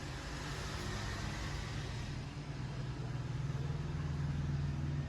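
A steady low mechanical rumble, like a running engine, growing somewhat louder after about three seconds.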